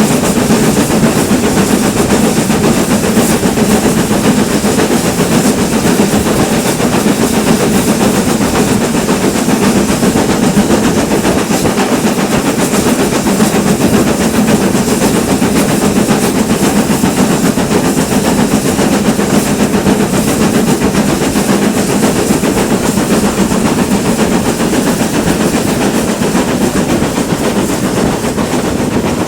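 Steam train running along the line, a steady loud rumble with rail noise that carries on without a break.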